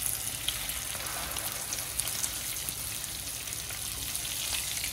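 Oil sizzling in a frying pan as egg-coated chicken shami kebabs shallow-fry: a steady hiss scattered with many small pops.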